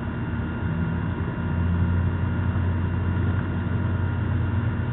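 A machine running steadily, a continuous low hum with a few steady tones above it.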